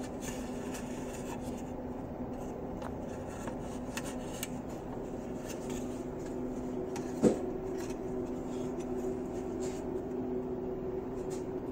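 A steady low hum at a few fixed pitches, with faint clicks and light rubbing from small parts being handled, and one brief louder sound about seven seconds in.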